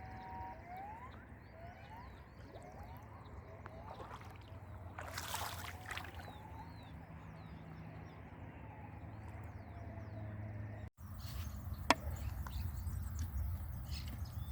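Outdoor ambience by a canal: faint scattered short chirps over a low steady hum. About five seconds in there is a brief burst of water-like sloshing noise, and near the end a single sharp click.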